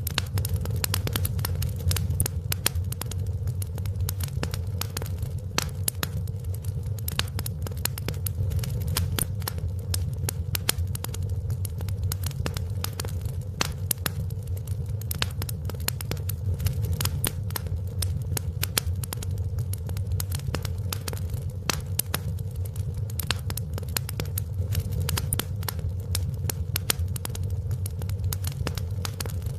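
Wood fire crackling and popping: irregular sharp snaps over a steady low rumble of the flames.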